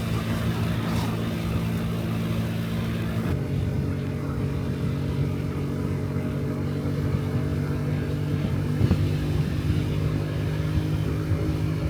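Honda Dio Cesta 50cc four-stroke scooter engine running steadily under way, with wind noise over it; the hiss drops away about three seconds in while the engine's hum carries on.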